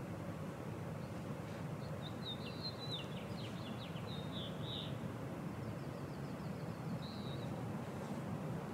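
A small songbird sings a short phrase of high chirps and quick down-slurred notes, then a fainter rapid trill, over steady outdoor background noise.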